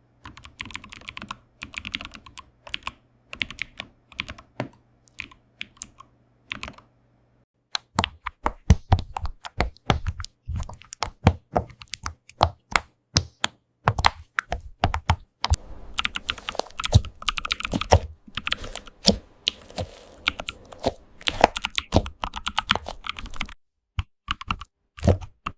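Keyboard typing: rapid runs of key clicks and clacks, uneven in rhythm, stopping briefly a few times.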